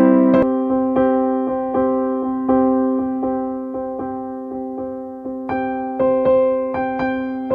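Background music played on piano or electric piano: slow, soft notes struck about every three-quarters of a second and left to ring and fade.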